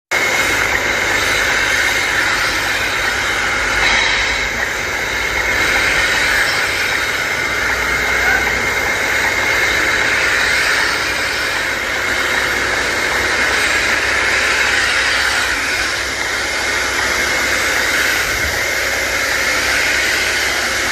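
Tamiya 1/14 radio-controlled Scania model truck running, a steady mechanical hum and hiss that holds an even level.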